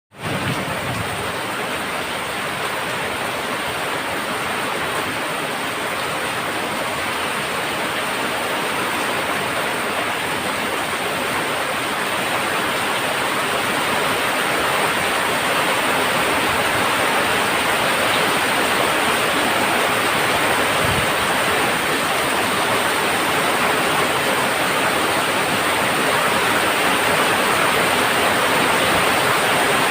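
Heavy monsoon rain falling on a tin roof: a dense, steady hiss of countless drops that grows slightly louder over the stretch.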